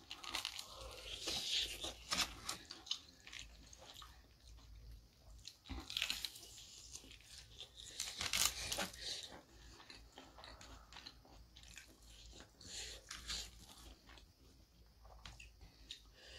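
Close-miked biting and chewing of crispy fried chicken, the coated crust crunching and crackling in loud bouts: about a second in, near six seconds and around eight and a half seconds. Softer chewing fills the stretches between.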